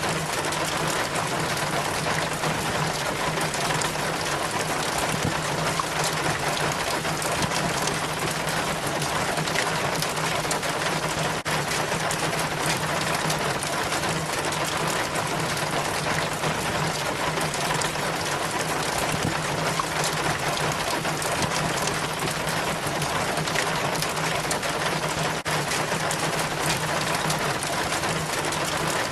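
Rainwater trickling and splashing steadily down a rain chain from the gutter, with a steady low hum underneath.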